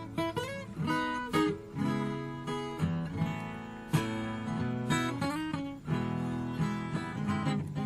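Acoustic guitar played solo: plucked single-note runs mixed with strummed chords, each note starting sharply, with a few notes sliding in pitch.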